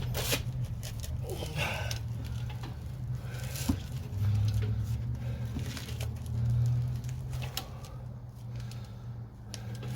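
A steady low hum, with scattered clicks, knocks and rustling on top.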